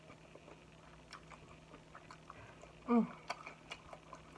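A person eating seafood boil: chewing with soft, wet mouth clicks and smacks scattered through, and a short falling hum of the voice about three seconds in.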